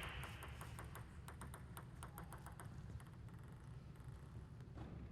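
Hall applause dying away into a few scattered claps, then quiet with an occasional faint tap, such as a table tennis ball.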